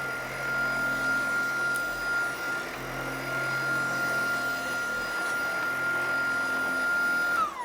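Tineco cordless stick vacuum running with its direct-drive powerhead, a steady high whine over a low hum. Near the end it is switched off and the whine falls away.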